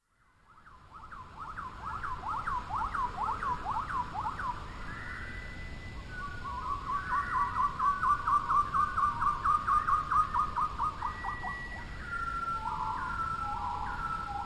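Songbirds singing, fading in over the first two seconds. First come quick whistled down-slurred notes, then a fast run of repeated notes around the middle, then longer level whistles near the end.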